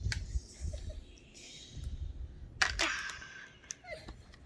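Handling noise from a plastic toy rocket: light clicks and rubbing, then one sharp snap about two and a half seconds in, followed by a short hiss.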